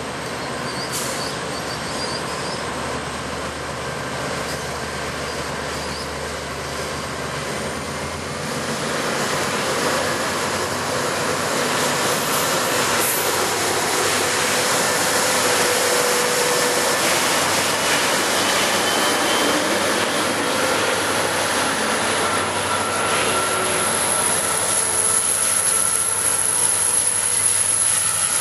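NR class diesel-electric locomotive hauling a loaded steel train as it pulls away, the engine and the wagons rolling over the rails growing louder as the train comes past. A thin high squeal from the wheels grows stronger in the second half.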